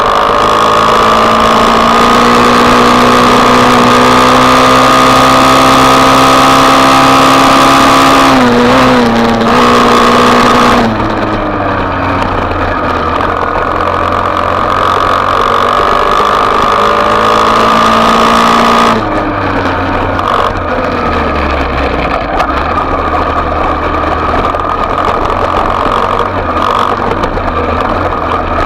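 Small single-cylinder off-road motorbike engine running under way, its pitch climbing slowly for about eight seconds, then falling back around eight to eleven seconds and running lower and quieter, with a further drop near nineteen seconds.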